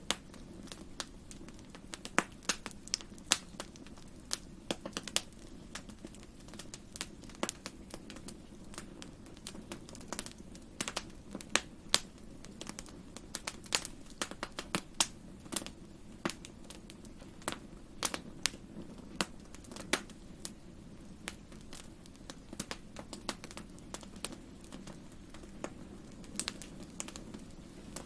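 Wood campfire crackling: irregular sharp pops and snaps, several a second, over a steady low rush of burning.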